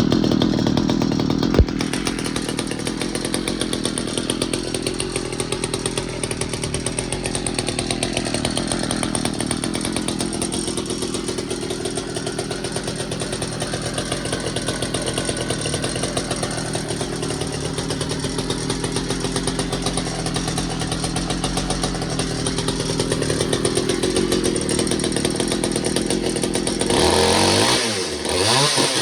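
Pioneer P-41 chainsaw's 66cc two-stroke engine running steadily at a fast, even putter, with one sharp click about two seconds in. Near the end it gets louder as the engine is revved up and down.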